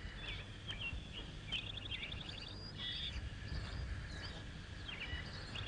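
Faint birdsong: scattered short chirps and quick trills, a few of them sliding downward in pitch.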